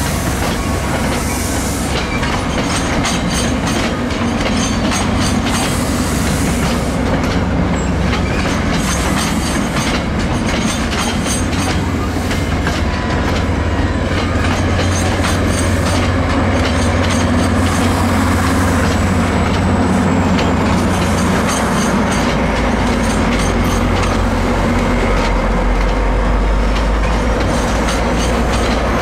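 New Jersey Transit passenger coaches rolling past close by, with a steady rumble of wheels on rail and a run of clicks as the wheels cross the rail joints. A deeper low rumble builds about three-quarters of the way through.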